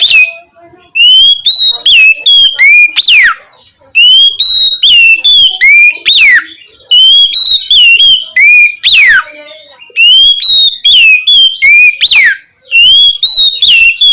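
Oriental magpie-robin (kacer) singing its loud, clear 'ngeplong' song. It repeats one phrase about every three seconds: a quick run of short whistles, then one long whistle that slides steeply down.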